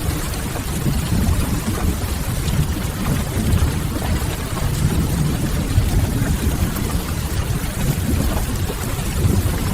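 Steady rain against a window mixed with the soft crackle of a wood fire, over a low, even rumble.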